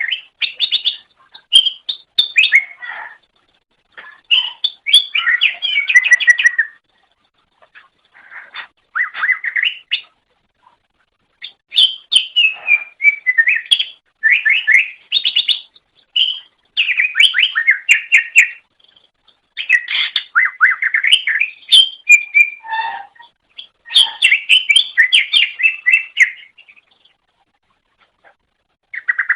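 Green leafbird (cucak ijo) singing: a loud song of rapid, varied chattering and whistled notes, delivered in phrases of one to three seconds with short pauses between them.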